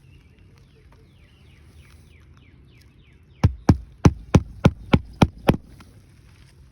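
Hammer driving a roofing nail into an asphalt shingle: eight sharp strikes in quick succession, about four a second, starting about halfway through.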